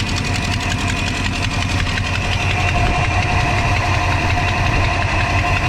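1982 Chevy C10's 5.0-litre V8 idling steadily with a rapid ticking from the right bank: the sign of an exhaust leak, traced to a broken exhaust manifold gasket.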